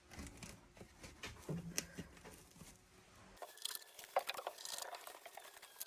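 Faint, irregular clinking and rattling of metal rockfish jigs being handled and moved.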